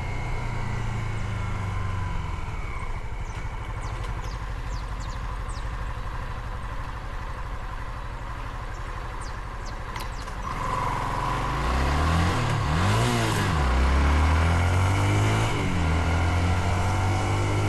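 Motorcycle engine running on the road: a steady low drone at first. About ten seconds in it grows louder and rises and falls in pitch as it is revved up and eased off.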